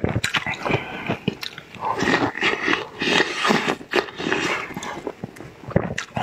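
Close-miked eating sounds: a person chewing and biting into a fried pastry, with irregular moist mouth noises and small clicks.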